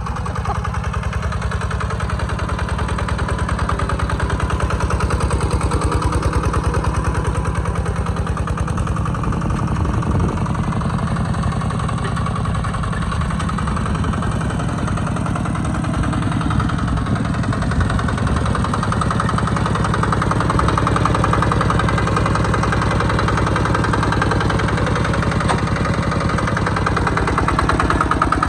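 Kubota RT120 walking tractor's single-cylinder diesel engine running steadily with an even firing beat, pulling a plow.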